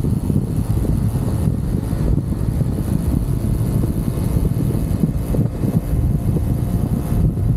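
UM Renegade Commando 125's small single-cylinder engine running steadily under way, with wind rushing over the handlebar-mounted microphone.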